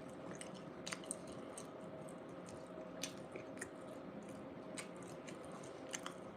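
Faint close-up chewing of a bean burrito: soft, wet mouth sounds with small clicks at irregular moments, over a faint steady hum.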